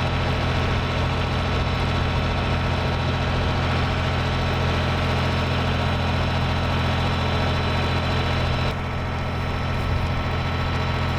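A motor running steadily at idle, a low, even hum with no change in speed; its higher part drops a little about nine seconds in.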